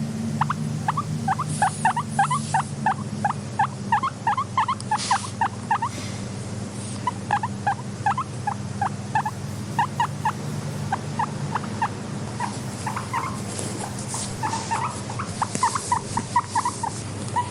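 Guinea pigs squeaking in quick, short squeaks, several a second, over a steady low hum that fades about seven seconds in.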